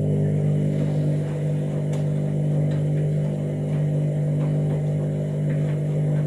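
Washing machine drum motor running steadily through a wash tumble, a loud even hum. It builds up just before and then holds, with faint scattered ticks over it.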